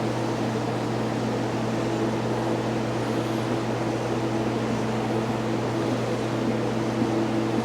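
A steady machine hum with a low, even buzzing tone that does not change.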